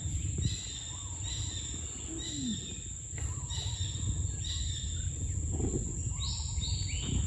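Wild birds chirping, a string of short high calls one or two a second, over a steady high-pitched whine and a low rumble.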